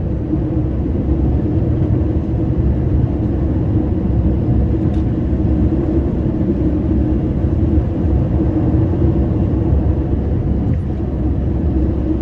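Scania R560 plow truck's V8 diesel running steadily under load while plowing snow: a constant low rumble with a steady drone.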